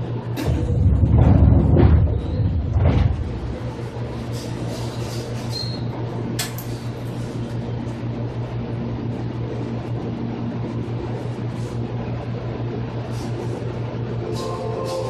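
Interior sound of a Seibu 2000 series electric commuter train. A steady low hum runs throughout. A loud rumble with a few sharp knocks comes about half a second in and dies away by three seconds, then scattered clicks follow.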